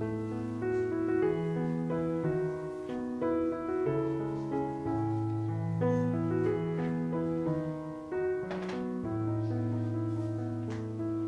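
Soft background piano music playing slow sustained notes and chords, with a couple of faint light clicks late on.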